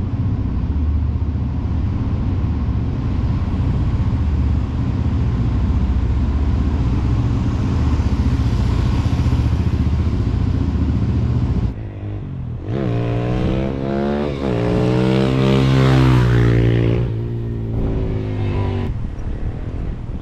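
Suzuki DR-Z400SM single-cylinder four-stroke engine running steadily at low revs. About twelve seconds in the sound drops off, then the engine revs up with rising pitch, dipping once at a gear change before climbing again, and eases off near the end.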